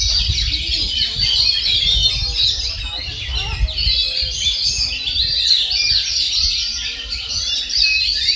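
Caged oriental magpie-robins (kacer) and other contest songbirds singing together in a dense, unbroken stream of quick chirps, short whistles and trills.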